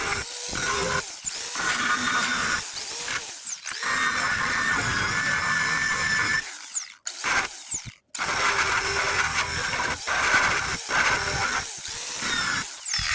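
Wire wheel on a power tool stripping paint and rust off a steel truck body panel: a steady, high-pitched grinding whir. It cuts out briefly twice, about seven and eight seconds in, then carries on.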